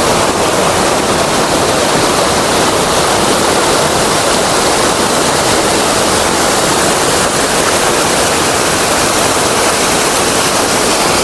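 Waterfall pouring into a pool, a loud steady rush of falling water.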